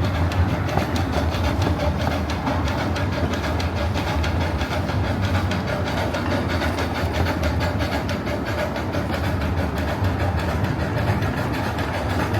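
Coal-fired steam train and its cars rolling along the track: a steady low rumble with fast clicking of the wheels on the rails.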